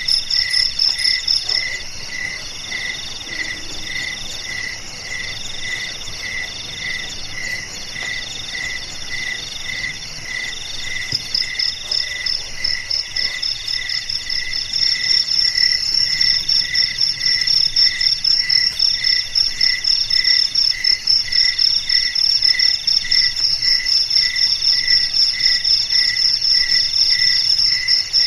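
A chorus of crickets and other calling insects with several calls layered together. One chirps evenly at a lower pitch, one trills in repeated phrases with short breaks, and a high pulsing buzz grows louder about halfway in.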